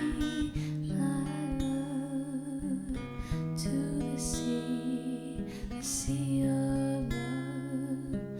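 Acoustic guitar playing slow chords: the instrumental introduction to a gentle love song, before the vocal comes in.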